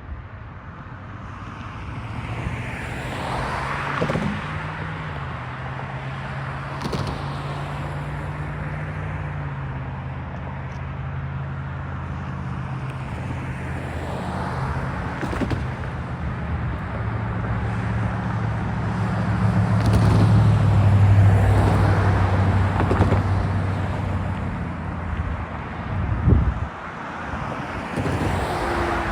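Freight train rolling by with a steady diesel engine drone that shifts pitch in small steps and grows to its loudest about twenty seconds in. Several brief swishing passes sound over it.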